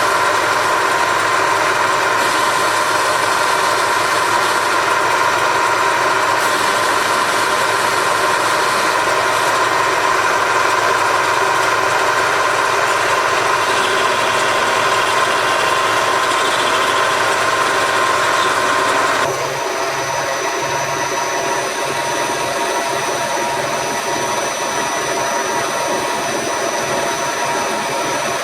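Machine tool running steadily under power, with a constant whine. About two-thirds of the way through the sound drops slightly and changes pitch, then runs on steadily.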